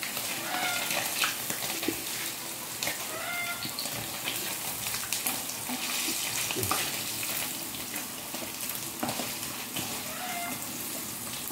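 Chicken pieces frying in hot oil in a wok, a steady sizzling hiss with a few small clicks.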